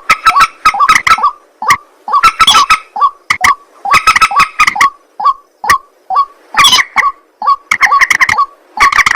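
White-breasted waterhen (ruak-ruak) calling loudly and over and over, in bouts of harsh, croaking notes broken by short sharp clicks.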